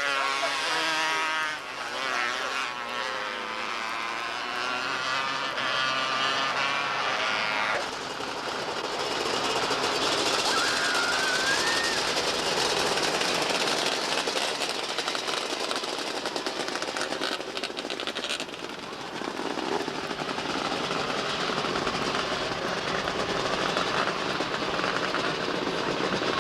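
Engines of several small oval-track race cars running together, their pitch rising and falling as the cars go around, clearest for about the first eight seconds. After that the sound turns into a denser, steadier mixed noise.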